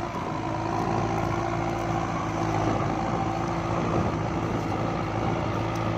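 Kubota MU5702 tractor's diesel engine running steadily under load while plowing.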